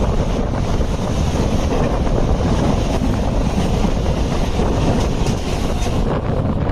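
Mumbai Rajdhani Express passenger train passing at high speed: a loud, steady rush of wheels on rails and moving air, with wind buffeting the microphone. The high hiss drops away about six seconds in.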